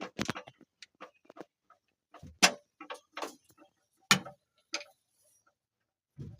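A string of sharp clicks and knocks at uneven intervals, the two loudest about two and a half and four seconds in.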